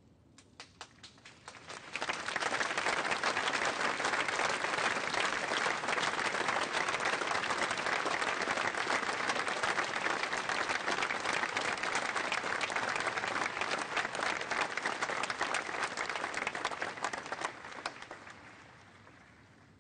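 Audience applause: a few scattered claps, swelling within about two seconds to full, steady applause, which dies away near the end.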